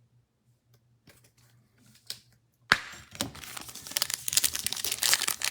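A foil trading-card pack being torn open and its wrapper crinkled. It starts with a sharp rip about halfway through, after a few faint clicks, and the crackling keeps on to the end.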